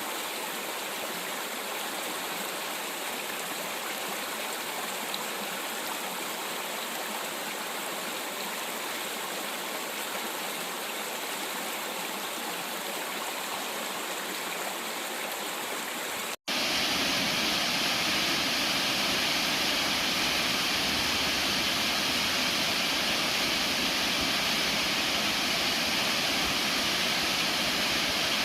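Mountain stream rushing steadily over rocks. After an abrupt cut about sixteen seconds in, it gives way to the louder, deeper steady roar of a 120-foot double waterfall.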